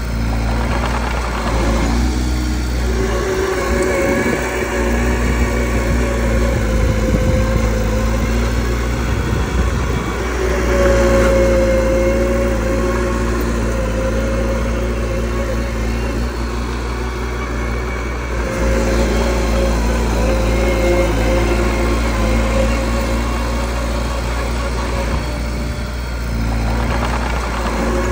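Diesel engine of a mini crawler bulldozer running steadily while it works, its speed rising and easing off a little, loudest about eleven seconds in.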